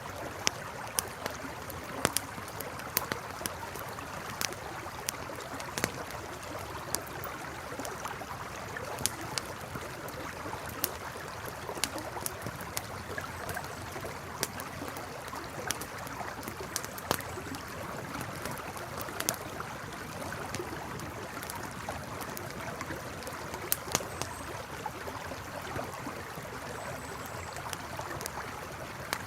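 Campfire crackling, with sharp, irregular pops and snaps, over the steady rush of a flowing river.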